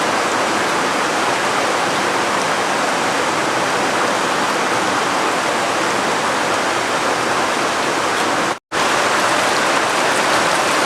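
Heavy rain falling in a steady, loud downpour, cutting out for an instant about three-quarters of the way through.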